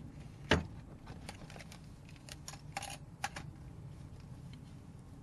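Tools and parts being handled during hand work on door wiring: one sharp knock about half a second in, then a scatter of light clicks and small rattles.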